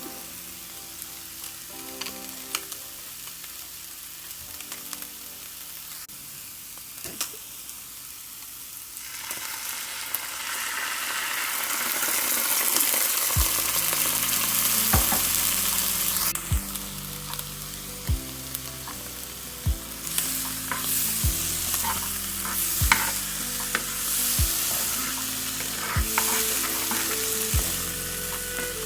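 Food frying in a pan: a sizzle that swells up about ten seconds in and keeps going, with frequent clicks and scrapes of a utensil stirring it. Soft background music underneath.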